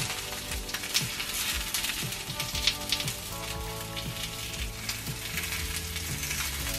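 Egg-coated pork patties (donggeurangttaeng) sizzling in oil in a cast-iron pan, a steady crackle of slow frying over a low flame.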